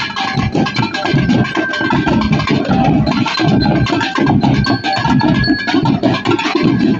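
Loud percussion-heavy music: drums and other percussion struck in a fast, dense rhythm, with a few held high notes over them.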